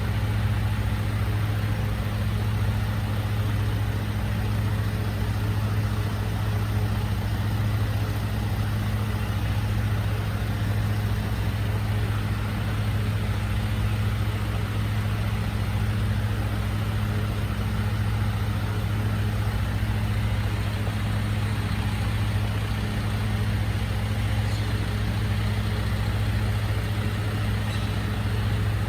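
Recycling truck's engine idling with a steady, unchanging low hum.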